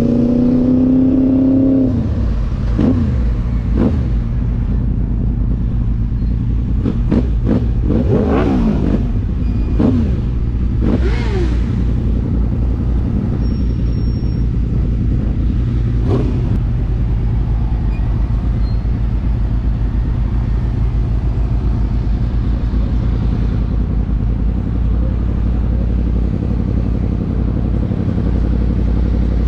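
Motorbike engine running steadily, with several quick rises and falls in revs in the first half.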